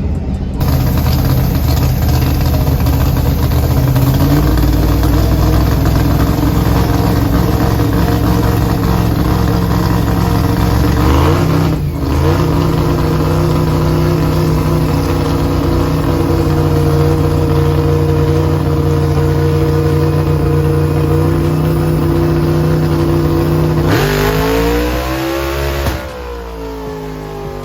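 Car engine held at high revs for long stretches, its pitch stepping up twice. Near the end it revs up and falls back, then the level drops.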